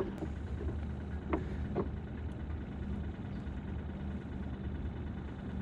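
Bait-bucket aerator pump humming steadily as it keeps live bait alive, with two short clicks a little over a second in, half a second apart.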